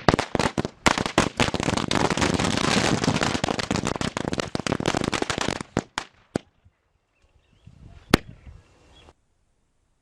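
String of firecrackers going off in rapid, dense succession for about six seconds, then a few last scattered bangs. The final one comes about eight seconds in, and then it stops.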